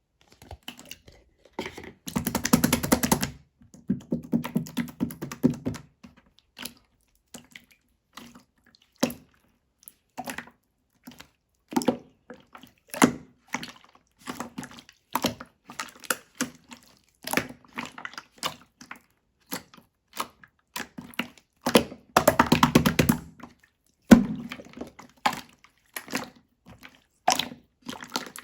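Clear slime being squeezed and poked by hand, making a run of sticky clicks and pops. Two longer runs of dense crackling come about two seconds in and again about twenty-two seconds in.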